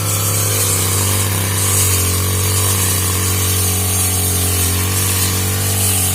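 Petrol brush cutter engine running steadily, its pitch holding almost level.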